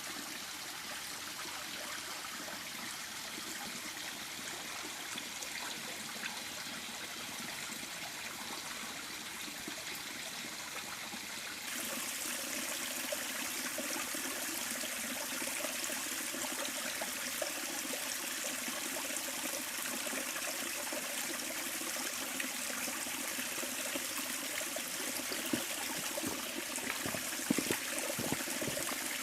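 River water running and trickling steadily. About twelve seconds in it becomes louder and brighter, and a few small knocks sound near the end.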